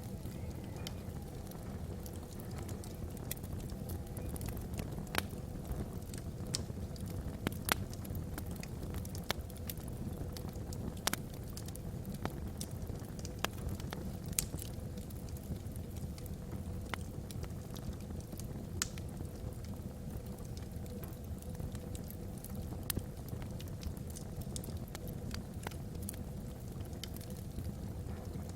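Wood fire burning in a fireplace: a steady low rumble of flames under irregular sharp crackles and pops from the logs.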